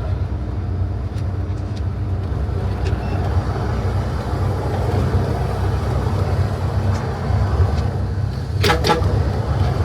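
Bus engine running and road noise heard from inside the cabin as a steady low rumble. A couple of short, sharp sounds come near the end.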